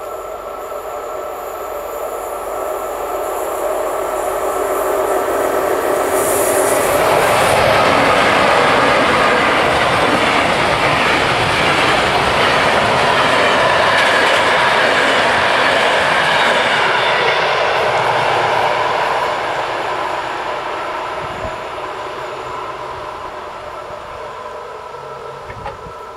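Green Cargo freight train of hopper wagons rolling past over a level crossing: wheel rumble and clatter build over the first several seconds, stay loud through the middle and fade away near the end. The crossing's bells ring steadily underneath.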